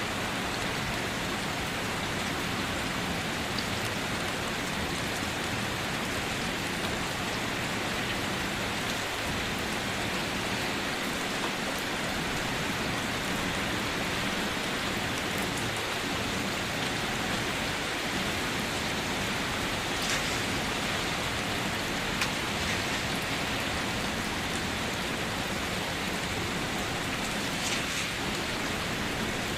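Steady rain falling on surfaces, a dense even hiss with occasional separate drop ticks. No thunder.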